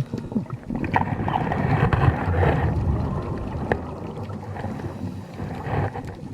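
Scuba diver's exhaled bubbles rushing and gurgling from the regulator, heard underwater: one long exhalation from about a second in and a shorter one near the end.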